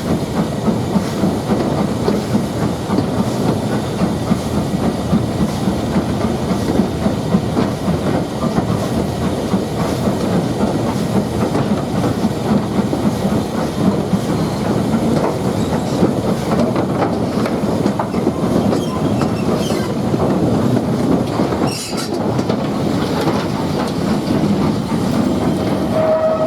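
Heritage railway train running steadily along the line, a continuous rumble with wheels clicking over the rail joints. A brief steady tone comes in near the end.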